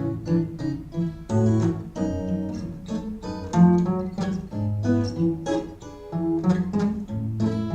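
Instrumental ragtime-era march and two-step played on guitar: plucked melody notes over a bouncing bass line.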